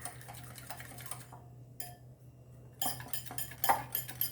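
A utensil mixing curd with mustard oil and chili powder in a bowl, clinking and scraping against the bowl: faint at first, then quick, louder strokes from about three seconds in, beating out the lumps.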